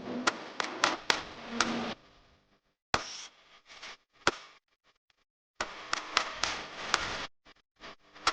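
Drawing on paper: sharp taps and scratchy strokes of a pen or marker in short bursts, broken twice by sudden dead silences.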